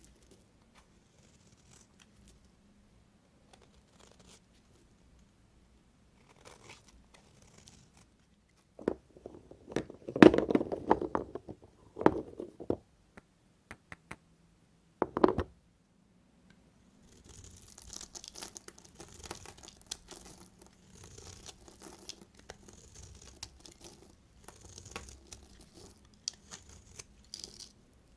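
Knife cutting through soap, with crunchy crackling: a few loud cuts between about nine and fifteen seconds in, then a long run of fine, crisp scraping and crackling.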